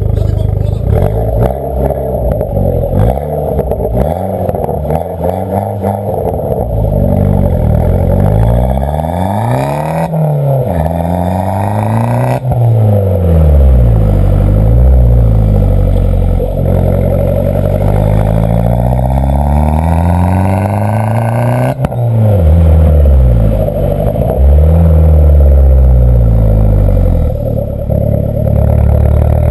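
Abarth 500's 1.4 T-Jet turbocharged four-cylinder through an aftermarket G-Tech exhaust with a 200-cell sports cat, revved repeatedly: the pitch climbs and falls several times, with two sudden drops where the throttle is shut at the top of a rev.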